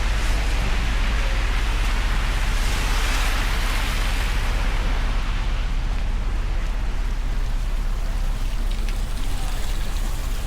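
Steady hiss of rain falling over a constant low rumble, with a few faint drop ticks near the end.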